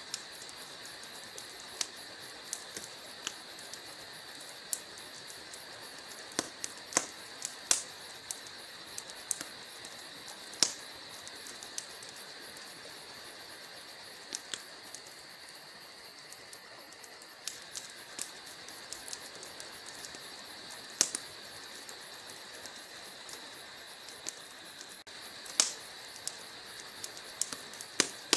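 Wood logs burning in a fireplace, crackling with irregular sharp pops over a steady hiss.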